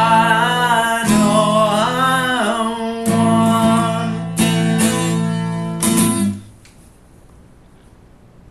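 Acoustic guitar strummed under a singer's held, wavering closing notes. About six seconds in the music stops, leaving only quiet room tone.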